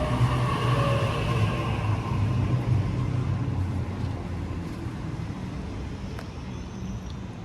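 Sydney Trains electric passenger train rumbling at the platform, its motor whine falling in pitch as it slows, the rumble gradually fading.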